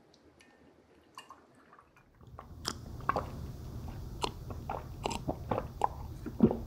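Eating sounds of pork kimchi stew and rice: biting and chewing with many sharp clicks and wet smacks, starting about two seconds in after near quiet.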